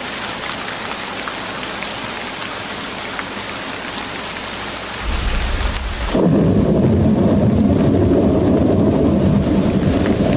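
Steady rain with a patter of drops for about five seconds. Then a deep rumble comes in, and about a second later the rain hiss cuts off abruptly. A louder, deep, rolling rumble carries on to the end.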